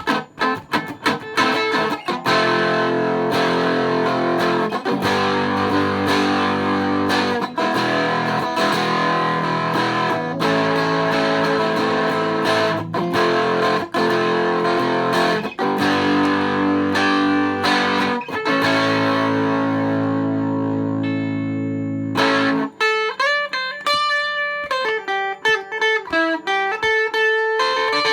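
Electric guitar, an old Japanese model with a home-made weighted tremolo block, played to test its sustain. Strummed chords run until a long held chord rings out and ends about 22 seconds in. Single-note lines follow to the end.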